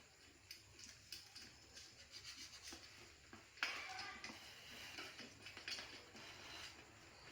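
Faint rubbing and light clicks of brake parts being handled in a workshop, with one sharper knock about three and a half seconds in that rings briefly.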